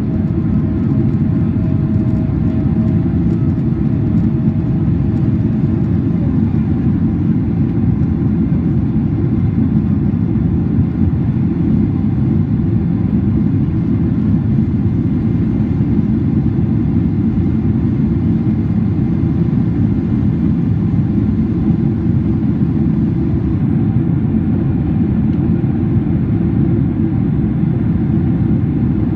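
Steady cabin noise inside a Boeing 767-400ER airliner: a constant low drone of engines and airflow that does not change.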